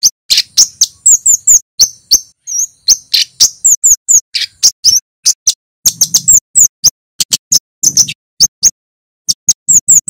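Male flowerpecker (kemade) calling loudly in a rapid string of short, sharp, high 'tsit' chips, a few to several a second, with brief pauses between runs.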